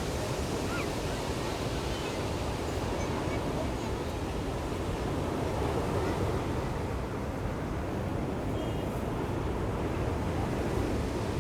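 Ocean surf breaking on the shore as a steady wash of noise, with faint, distant voices of people on the beach now and then.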